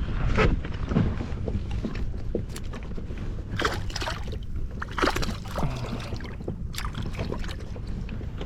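Wind rumbling on the microphone and water slapping around a small inflatable boat, with scattered knocks and splashes.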